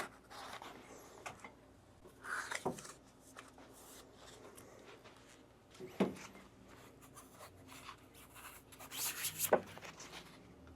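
Sparse handling noises from unpacking: a brief rub or scrape, a single knock about six seconds in, and a short rustle near the end, with quiet between.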